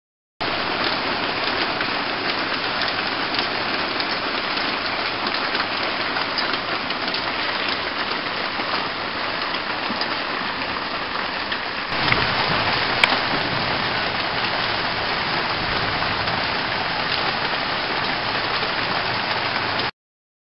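Steady rain falling, a dense even patter that cuts in and out abruptly. About twelve seconds in it grows louder and fuller, and a single sharp click sounds about a second after that.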